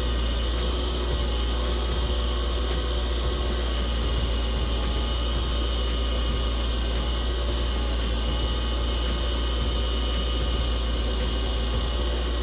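Wood lathe running steadily with a low motor hum and hiss while a resin turning is buffed with abrasive paste, with a faint tick about once a second.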